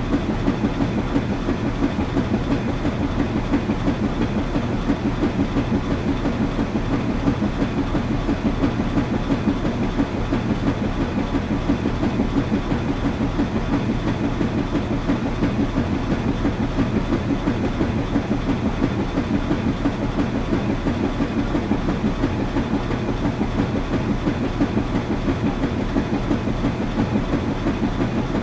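Washing machine running steadily, with a fast regular rhythmic pulse.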